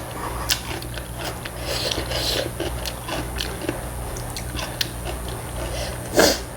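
Close-miked eating sounds: chewing a mouthful of ramyun noodles, with many small wet mouth clicks, and one louder sharp noise about six seconds in.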